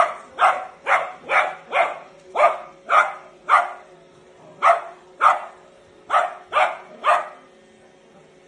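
A small Shiranian dog barking in sharp, quick yaps, about two a second, a dozen or so in all with two short pauses, stopping about seven seconds in.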